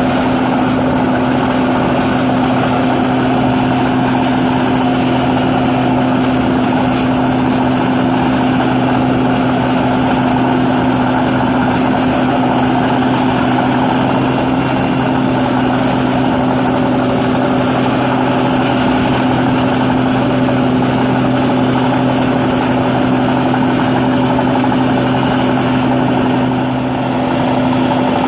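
New Holland 8060 combine harvester running steadily while harvesting paddy rice, its engine holding one even pitch.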